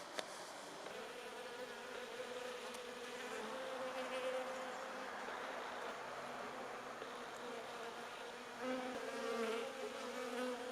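Honeybees buzzing: a continuous hum that wavers in pitch, swelling louder near the end.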